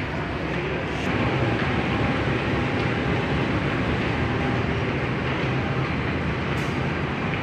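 Steady rumbling noise of a train in motion, a little louder from about a second in.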